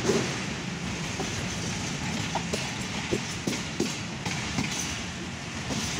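Pakistan Railways passenger train running, heard from aboard a coach of the Jaffar Express: a steady running noise of the wheels on the rails, with short irregular clicks.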